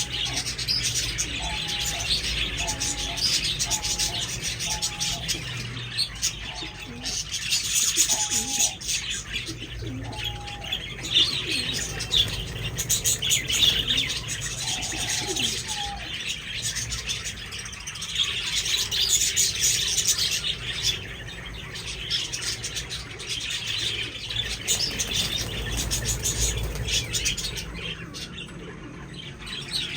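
A flock of budgerigars chirping and warbling continuously, many birds calling over one another, with a short lower call repeated several times over the first half.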